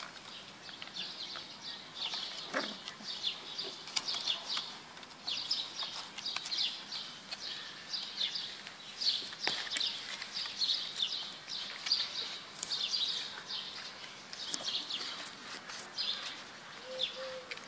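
Birds chirping in quick repeated high calls, with a few scattered clicks and rustles of puppies scuffling on grass.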